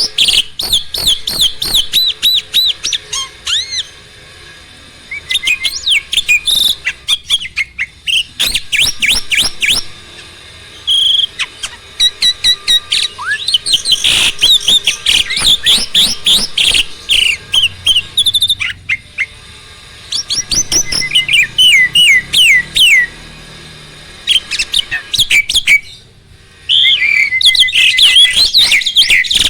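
A jalak (Indonesian starling) singing loudly: fast strings of high chirps and whistles in phrases of several seconds, broken by short pauses.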